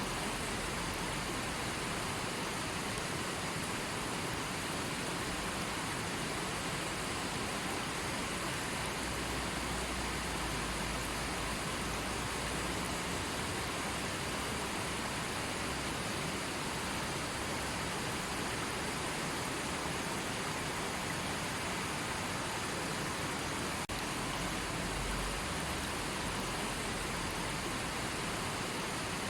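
River water rushing steadily, an even hiss of flowing water, with a low rumble that comes and goes.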